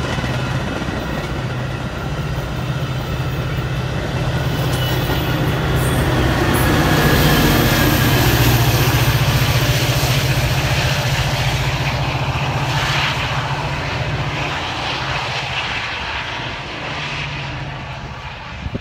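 Metra commuter train of bilevel passenger cars rolling past, its diesel locomotive at the rear going by with a steady engine drone that is loudest about halfway through and then fades as the train pulls away.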